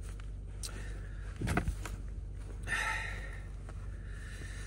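Vehicle engine idling with a steady low hum, with a single knock about a second and a half in and a short higher sound just before the three-second mark.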